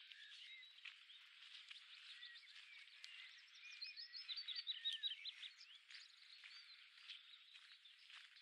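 Faint woodland birdsong: several small birds chirping and calling at once, with one bird singing a quick run of about ten repeated notes about four seconds in, the loudest part.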